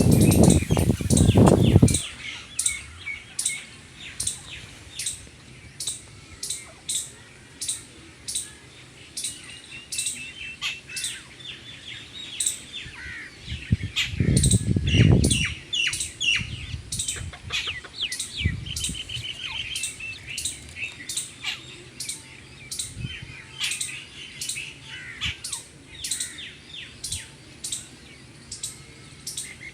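Small birds chirping: a steady series of short, high chirps about one to two a second, with some trilling calls mixed in. A louder low-pitched sound comes in the first two seconds and again around the middle.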